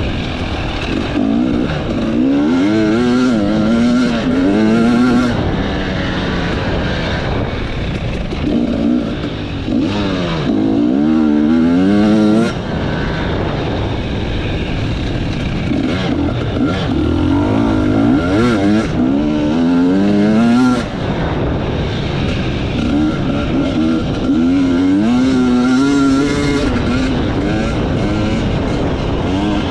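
Enduro motorcycle engine revving hard and easing off again and again, its pitch rising and falling in surges every few seconds, with short drops off the throttle about twelve and twenty-one seconds in.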